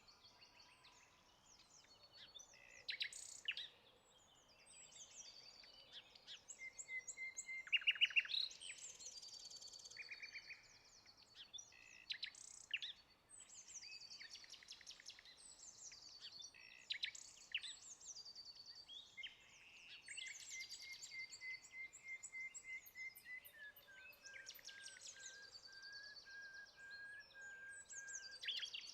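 Several songbirds chirping and singing in quick, overlapping calls, with a long, even trill in the second half.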